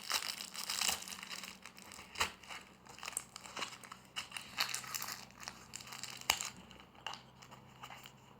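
Plastic packaging of surprise toy packets crinkling and rustling as it is handled, with scattered sharp clicks and taps; busiest over the first six seconds, then thinning out.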